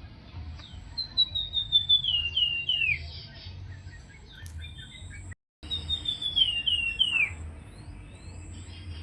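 Songbird kept in Indonesia as a 'flamboyan' singing two phrases about four seconds apart, each a quick run of whistled notes stepping down in pitch, over a low steady hum.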